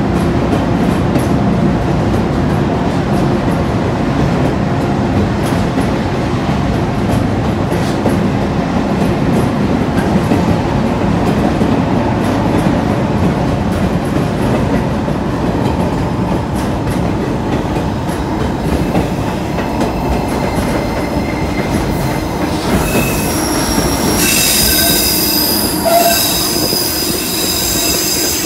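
Narrow-gauge railway train heard from a passenger car, running through a tunnel with a loud, steady rumble of wheels on rails. About 23 seconds in, the wheels begin to squeal in several high, steady tones.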